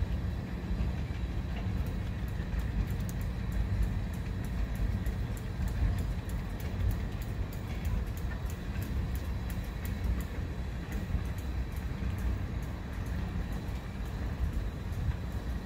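Freight train of loaded centre-beam flatcars rolling past: a steady low rumble of wheels on rail, with frequent faint high clicks.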